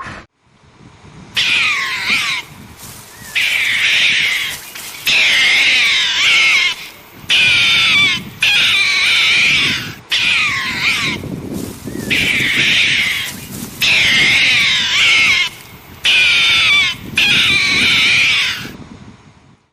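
An animal calling over and over: about ten loud, wavering, high calls of a second or so each, with short pauses between.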